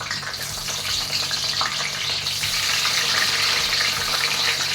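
Eggplant pieces frying in hot mustard oil: a steady, dense sizzling hiss with fine crackling.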